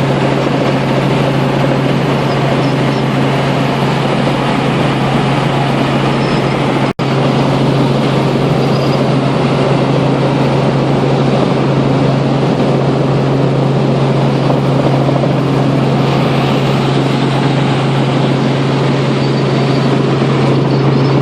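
Helicopter in flight: steady, loud engine and rotor noise with a strong low hum. The sound cuts out for an instant about seven seconds in.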